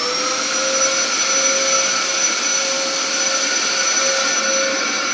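Vacuum cleaner motor finishing its spin-up right at the start, then running steadily at full speed with a high whine over a rushing airflow.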